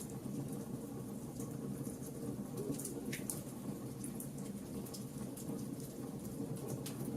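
Wood fire in a fireplace crackling: a steady low rumble of burning with frequent small, sharp pops scattered irregularly.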